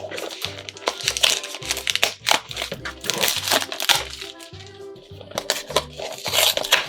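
Crinkling and crackling of a blind-box toy's packaging being opened by hand, in many short irregular bursts, over background music with a steady repeating bass line.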